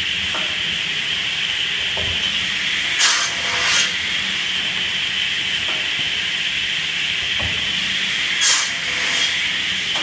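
Automatic chainsaw crosscut machine with a pusher running a 10-cut cycle: a steady, high-pitched running sound. It is broken twice, about 3 and 8.5 seconds in, by a pair of short, loud hisses about half a second apart.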